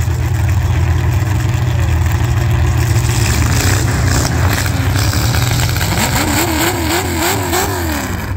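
Demolition derby car engines running loud and unmuffled, a heavy steady drone. About six seconds in, a pitch rises and falls several times a second until the end, like an engine being revved up and down in quick blips.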